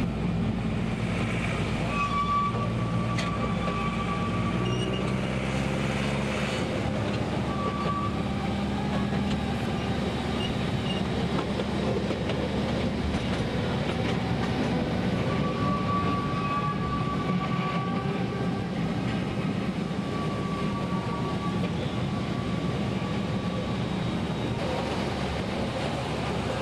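Narrow-gauge tourist train running along its mountain track, heard from an open carriage: a steady rumble of the moving train, with a thin high squeal coming and going about four times, as from wheels on curves.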